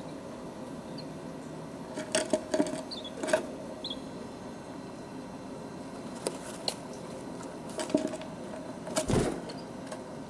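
Irregular knocks and scratching in a small box, with a few faint, short high peeps from budgerigar chicks.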